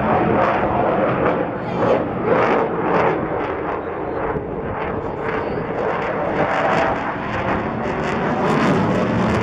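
Jet aircraft engine noise at an air display: a loud, steady, rough noise with an uneven pulsing.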